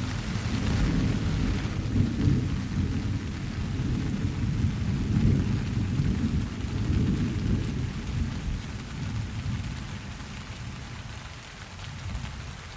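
Thunder rolling over steady rain. The low rumble comes in suddenly at the start, stays loud for the first several seconds, then fades away over about ten seconds while the rain goes on.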